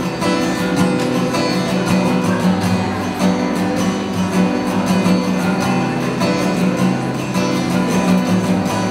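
Acoustic guitar strummed in a steady rhythm, with no singing: the instrumental close of a song.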